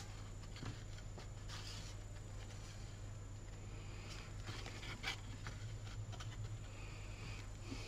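Faint rustling and brushing of cardstock as hands handle and press a folded paper basket, with a light tap about five seconds in, over a steady low hum.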